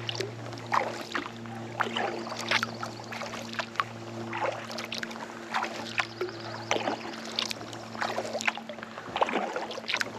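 Kayak paddle strokes: the blades dipping and pulling through lake water, with irregular splashes and drips, over a steady low hum.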